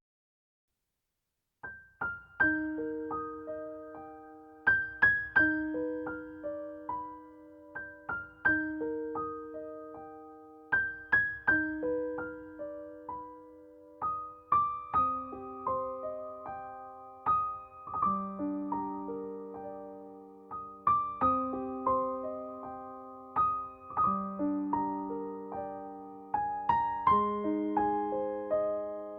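Soft, slow piano music, single notes ringing and fading over held chords, starting about a second and a half in after a moment of silence.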